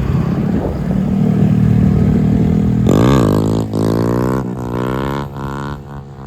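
Loud car engine and exhaust as a car accelerates. About three seconds in, the engine pitch dips and then climbs steeply as it revs up, then rises more gradually before fading away near the end.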